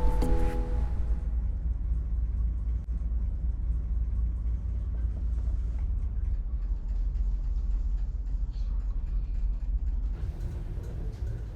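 Background music fades out in the first second, giving way to a steady, low engine rumble.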